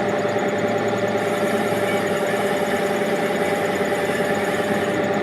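A machine running steadily with an even, constant-pitched hum.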